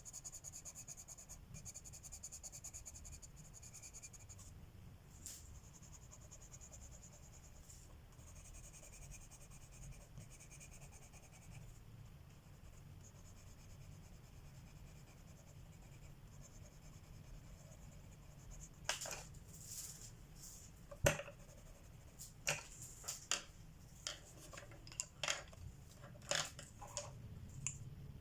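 Coloured pencil shading on paper: a fine, scratchy hiss of the lead rubbing back and forth, strongest in the first dozen seconds. In the last third comes a run of sharp clicks and taps, one knock louder than the rest.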